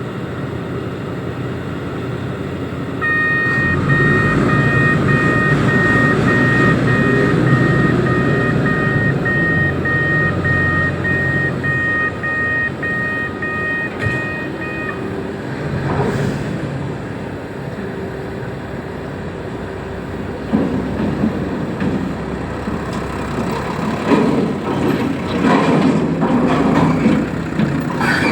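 Reach stacker's diesel engine running under load, with its reversing alarm beeping steadily about twice a second for roughly twelve seconds. Clanks and knocks of heavy metal come near the end.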